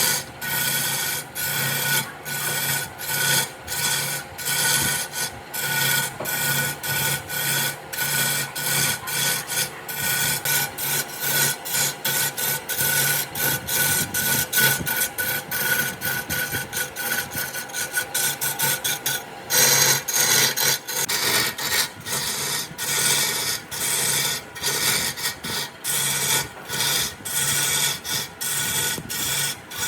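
A hand tool scraping across wood in quick back-and-forth strokes, about two a second, the rough rasping sound of wood being filed or abraded by hand.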